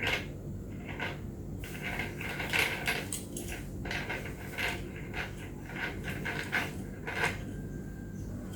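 Plastic parts of an electric fan being handled and fitted together: irregular clicks and knocks over a steady low hum.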